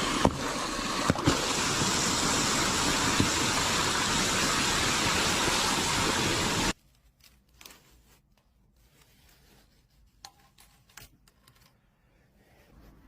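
Steady rushing of running water that stops abruptly about six and a half seconds in, followed by a few faint clicks.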